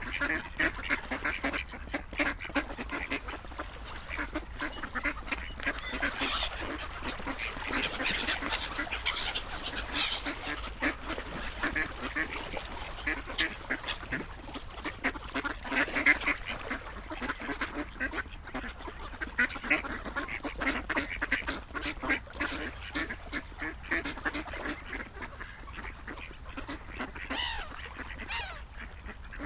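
Ducks quacking, many short calls coming quickly and overlapping, as from a flock.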